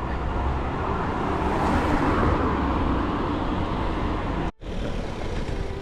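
Road traffic noise, a steady rush that swells about two seconds in, as of a car going by. It cuts out abruptly for an instant about four and a half seconds in.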